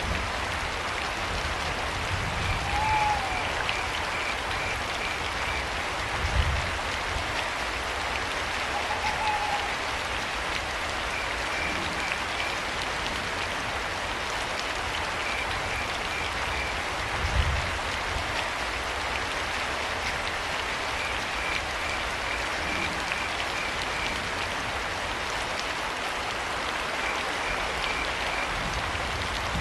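Steady rain falling, with crickets chirping in short repeated trains of high pips. An owl gives two short hoots early on, and two brief low thuds stand out, about 6 and 17 seconds in.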